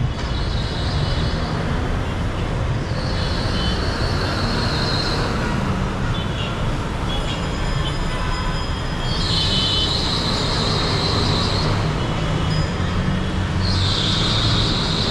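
Busy city street traffic: engines and tyres running steadily, with four high-pitched squeals of a second or two each that come and go.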